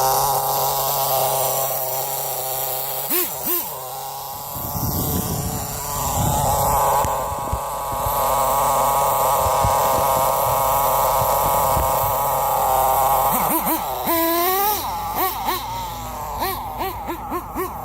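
SH .18 two-stroke nitro engine of an RC10GT truck, running on 5% nitro fuel: it runs steadily, with a couple of quick throttle blips about three seconds in, then is revved up and down repeatedly from about fourteen seconds on.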